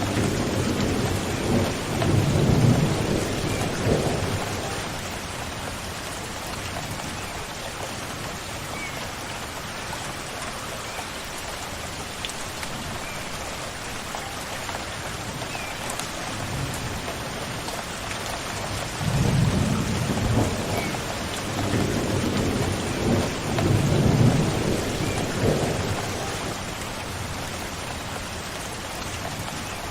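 Steady rain falling, with thunder rolling in two long low rumbles, one at the start and another past the middle. A bird gives faint short chirps now and then.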